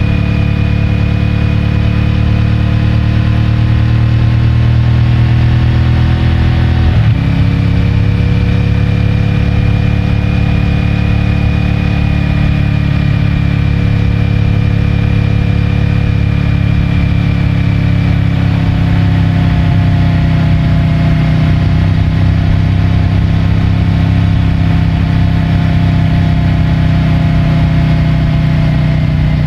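CFMOTO 450MT's 449 cc parallel-twin engine under way, its note climbing slowly, then dropping sharply on a gear change about seven seconds in. After the shift it runs steadily at a lower pitch, easing off slightly towards the end.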